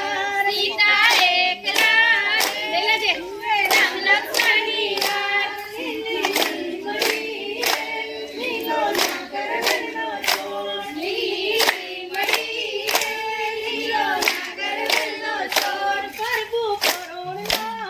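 Voices singing a Gujarati garba song together, with sharp rhythmic hand claps about twice a second keeping the beat.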